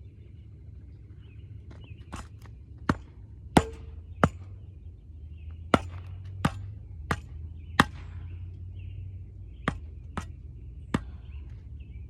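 A hand tool chopping into the dirt of a jump, about a dozen sharp strikes at an uneven pace.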